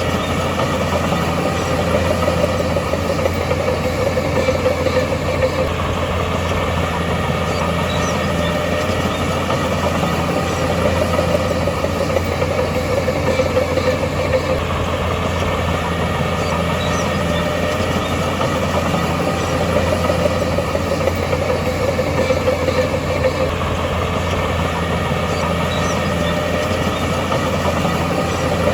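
Diesel engine of heavy earthmoving machinery running steadily, its level swelling and easing every few seconds.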